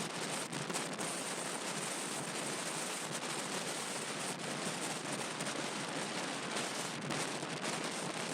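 Strong desert wind: a steady rushing hiss with a faint crackle through it.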